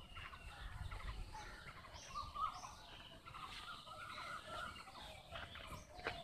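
Several birds chirping and calling at once, many short high notes overlapping, with a brief knock near the end.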